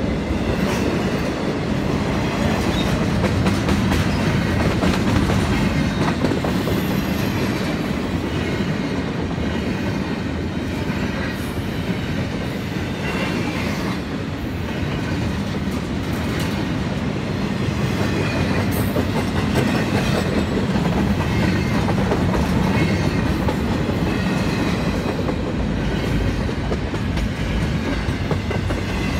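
Freight train of intermodal well cars rolling past: the steady, continuous noise of steel wheels on the rails as car after car goes by.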